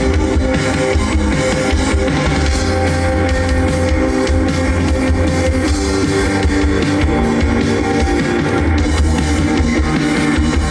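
Rock band playing live: guitar over a drum kit, with no singing.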